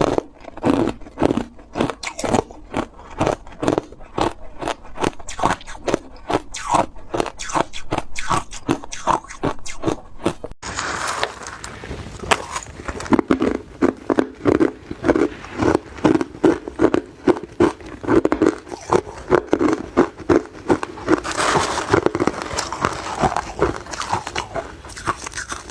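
A person chewing ice close to the microphone: a steady run of hard, sharp crunches, about three a second. The sound shifts abruptly about ten seconds in, then the crunching goes on.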